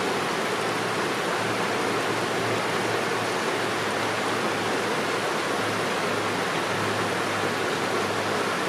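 Steady rush of a fast-flowing river, even and unbroken throughout.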